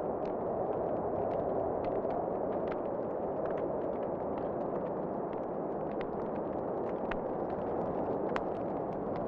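Wood fire crackling in a fireplace: irregular sharp pops and snaps over a steady low rushing roar, with one louder pop near the end.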